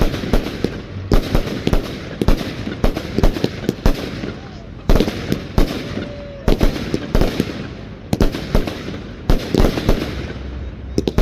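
Fireworks display: a rapid, irregular run of loud bangs and crackles, several a second.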